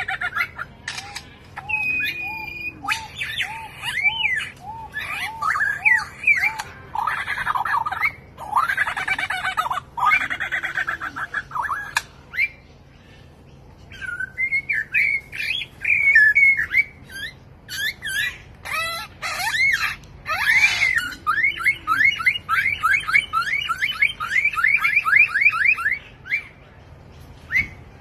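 A mimicking bird gives a varied string of whistled calls and squawks. One run of short rising notes comes near the start, and a fast run of quick repeated notes comes near the end. Its calls imitate other sounds, among them the laugh of a kuntilanak ghost.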